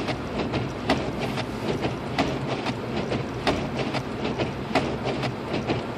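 Inside the cabin of a 2006 Lexus IS250 AWD driving on a snow-covered road: a steady low road rumble, with a sharp regular click about every 1.3 seconds and fainter ticks between.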